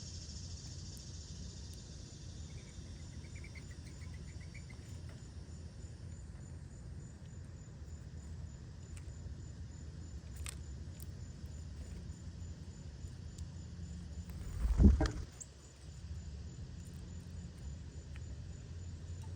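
Outdoor backyard ambience: a steady low rumble with a high steady buzz that fades over the first few seconds, and a short run of quick chirps about three seconds in. About fifteen seconds in, a single loud, brief low thump.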